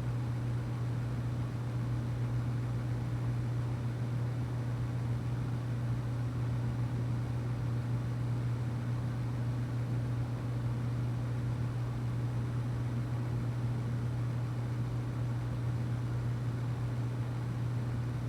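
Steady low mechanical hum with a constant hiss over it, unchanging throughout.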